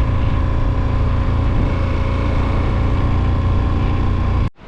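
KTM 1290 motorcycle's V-twin engine running steadily under way, with a heavy low rumble. It cuts off abruptly about four and a half seconds in.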